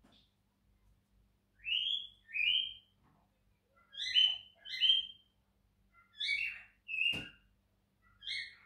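A bird calling in pairs of short chirps that rise in pitch, a pair about every two seconds, with a single sharp click about seven seconds in.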